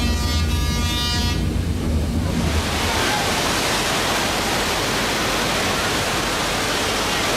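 A theme-park earthquake effect: a deep rumble with a steady pitched tone for the first second or so, then a loud, steady rush of water from the staged flood, which keeps up to the end.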